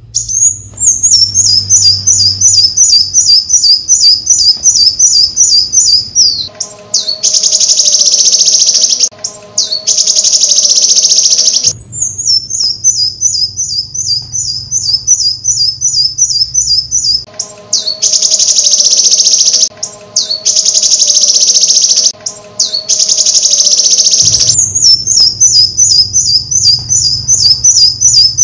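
Bird calls: stretches of quick repeated chirps, about six a second, take turns every few seconds with stretches of loud, harsh, buzzy trilling.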